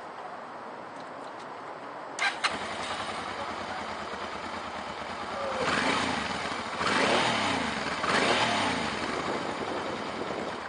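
1990 Honda Transalp XL600V's 600cc V-twin engine started: two sharp clicks about two seconds in as it fires and catches on the first crank, then it runs and is revved three times.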